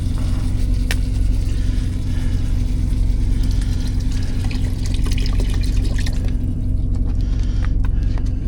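Steady low drone of the semi truck's diesel APU running. Over it, liquid is poured and splashes into the cooking pot, loudest in the middle, with a few light clicks of utensils.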